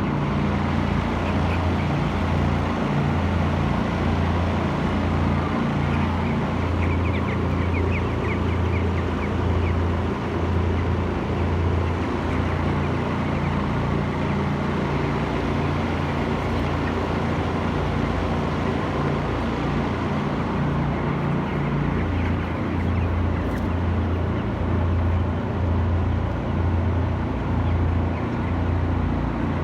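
Steady low machine hum, pulsing slightly, with broiler chicks chirping faintly in the shed, most clearly a few seconds in.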